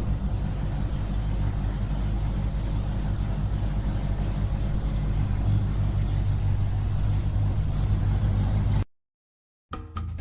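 Small engine running steadily at a constant speed, then cutting off abruptly about nine seconds in.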